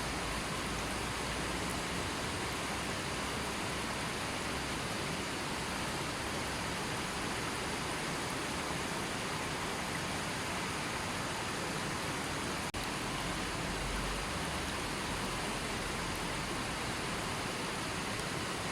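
Gentle river flowing: a steady, even rush of water, with a momentary dropout about two-thirds of the way through.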